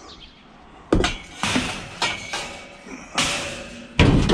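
Scrap metal banging and clattering as it is loaded into a van: about six loud clanks with a ringing tail, starting about a second in, the last two the loudest.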